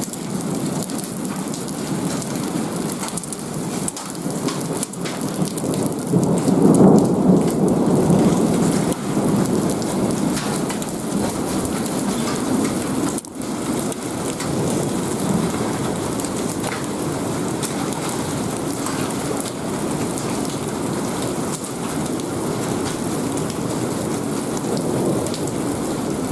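Heavy rain pouring down steadily in a thunderstorm. A low rumble of thunder swells from about six seconds in and is the loudest part, fading by about nine seconds.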